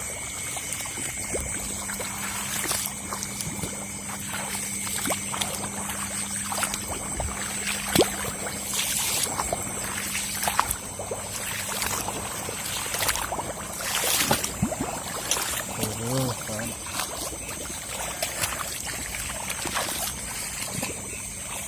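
Shallow paddy water sloshing and trickling as people wade through it, with a couple of louder splashes partway through. A steady high-pitched tone runs underneath.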